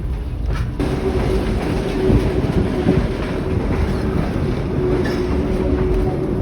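Kuranda Scenic Railway passenger train running along the track: a steady rumble of the carriage's wheels on the rails, with a steady tone joining in about a second in.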